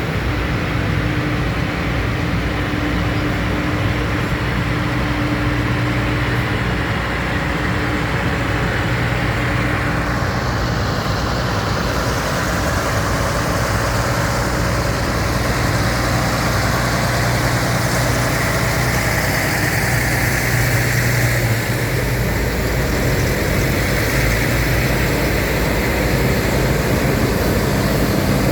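Tractor engine running steadily with a constant low hum, with engine noise from other vehicles around it.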